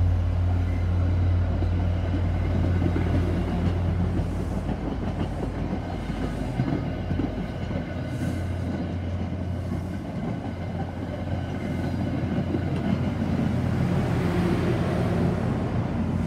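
MBTA commuter rail passenger coaches rolling past close by: a steady rumble of wheels on the rails with a low hum underneath, growing a little louder near the end.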